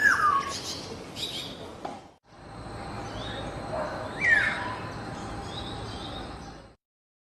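Black-naped oriole (kepodang) calling: a slurred whistled note at the start and a louder falling whistle about four seconds in, with faint higher chirps of other birds behind. The recording cuts off abruptly about two seconds in and again near the end.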